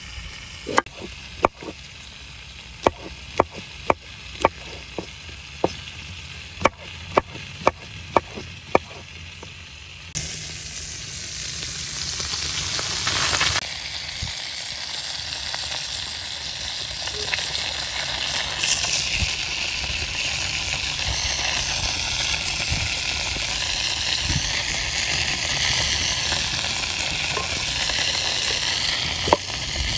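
A knife chopping on a wooden cutting board, about a dozen sharp strikes. About ten seconds in this gives way to a steady sizzle of skewered meat kebabs frying in a hot pan.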